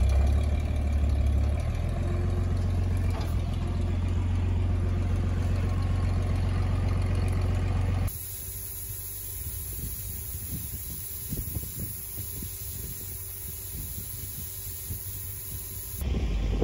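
An engine idling steadily with a low, even rumble. About halfway through the sound cuts abruptly to a quieter stretch of hiss and faint rumble, then cuts back to the idling engine near the end.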